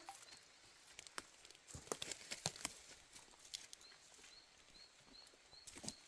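Faint scattered clicks and light taps, with a faint high chirp repeating about three times a second in the background.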